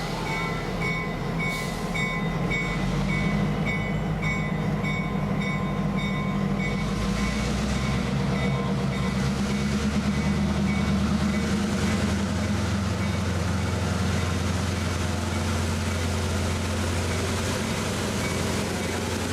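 Diesel locomotive running as a train pulls out, with a regular ringing about twice a second for the first seven seconds. The engine's low drone grows louder and steps up about twelve seconds in, as the locomotive works harder.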